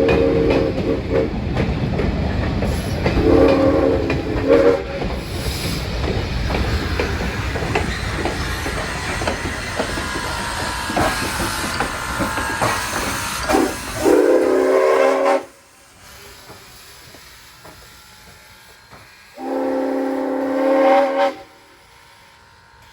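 A train running past close by, rumbling and clattering, sounds its chime horn or whistle in several long blasts. The rumble cuts off abruptly about two-thirds of the way through, and one more long blast follows over quiet surroundings.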